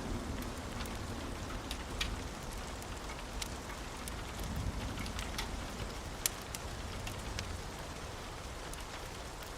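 Steady rain, with scattered sharp ticks of drops and a faint low rumble underneath.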